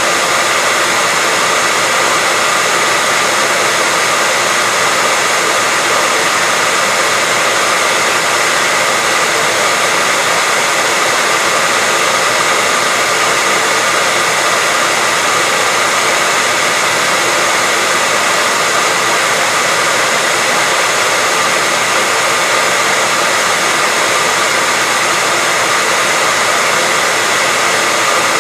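Hair dryer running steadily: a constant, even rush of fan noise with a faint steady whine.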